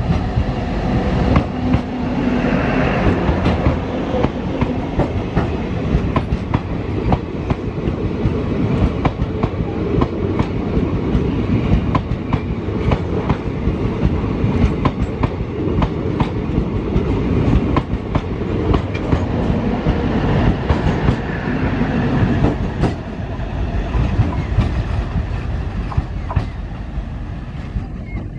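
Express train running through the station at speed: a loud, steady rush of coaches passing, with a rapid stream of clicks from the wheels on the track.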